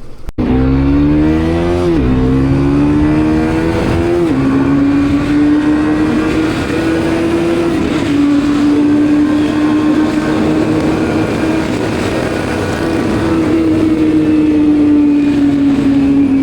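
Motorcycle engine accelerating, its pitch climbing and dropping twice as it shifts up through the gears, then running at a steady cruise with a slight drop in revs near the end, with road and wind noise throughout.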